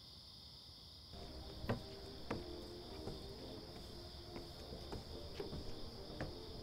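Crickets chirring steadily as a night background. From about a second in, faint low steady tones join them, along with a string of sharp knocks at irregular intervals.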